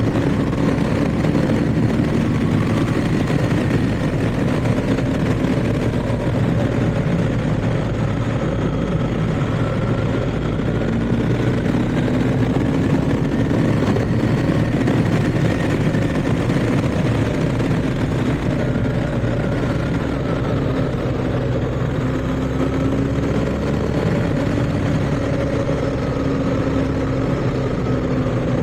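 BMW R1250GS's boxer-twin engine running at a steady cruise on the road, with road and wind noise and a slow, gentle rise and fall in engine pitch.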